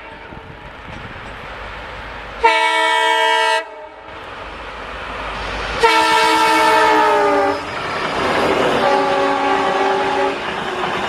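A train horn sounding over the rising rumble of a passing train: a short blast about two and a half seconds in, then a longer one near six seconds whose pitch drops as the train goes by. Fainter horn notes follow near the end.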